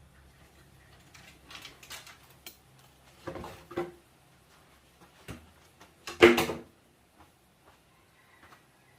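A few irregular knocks and clatters, like things being handled and set down. The loudest comes about six seconds in, with a smaller cluster a little past three seconds.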